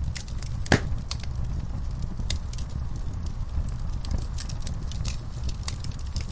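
Wood fire in an outdoor firepit crackling, with irregular sharp pops and one loud pop a little under a second in, over a steady low rumble.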